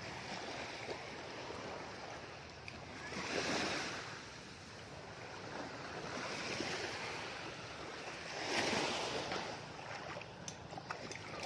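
Sea waves washing in on the shore, the surf swelling and falling back three times, a few seconds apart.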